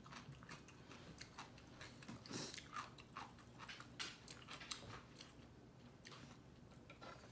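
A person chewing and biting food close to the microphone: a faint, irregular run of small clicks and crunches.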